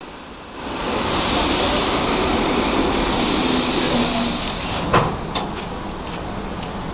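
ED4M electric multiple unit running through a station at speed: a loud rushing of wheels on rail swells about half a second in, eases after about four seconds, and a sharp click comes near five seconds.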